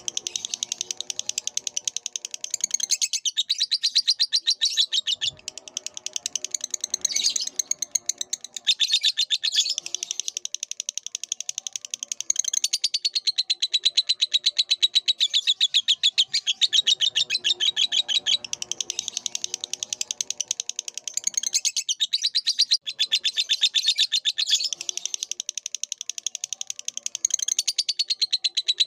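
Lovebird chattering in long, rapid strings of high chirps, many a second, pausing briefly a few times before starting again.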